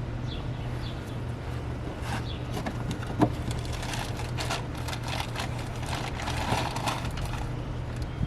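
Plastic clicks and rattling as the mass airflow sensor is worked loose and lifted out of the intake, with one sharp click about three seconds in, over a steady low hum.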